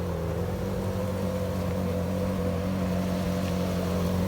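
Ferrari 458 Italia's V8 engine running steadily at low revs while the car is moved slowly, its pitch and level creeping up slightly toward the end.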